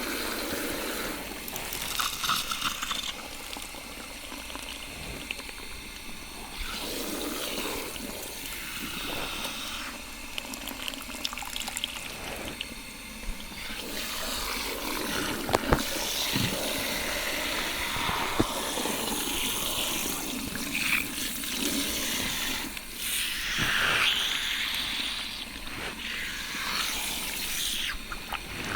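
Water from a salon shampoo-bowl shower head running and splashing over hair, with a few sharp clicks partway through.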